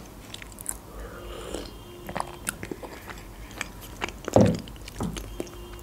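Close-miked mouth sounds of eating soft chocolate sponge cake: a sip from a mug, then chewing with many small wet clicks and smacks, and one louder gulp about four and a half seconds in.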